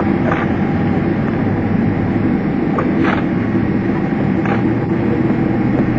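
Steady low drone inside a Boeing 767 airliner cabin, holding a constant hum at a few fixed pitches. A few short faint clicks sound over it.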